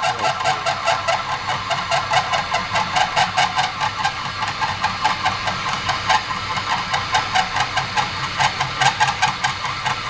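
Myford Super 7B lathe running slowly at about 280 RPM, with a rapid, even ticking from its drive.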